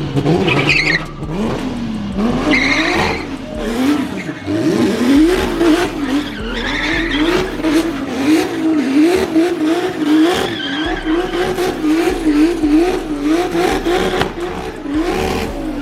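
A car engine held at high revs, its note rising and falling about twice a second as the throttle is worked, with tires squealing in short bursts during the first several seconds: a car doing a burnout or donuts.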